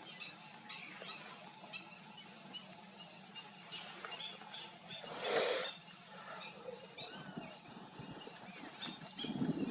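Birds calling outdoors: many short chirps over a steady low background hum, with one brief, louder rush of noise about five seconds in.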